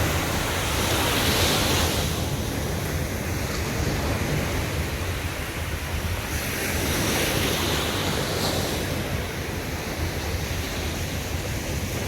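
Sea waves breaking and washing on a beach, with a low rumble of wind on the microphone. The surf swells twice, about a second in and again around six to eight seconds in.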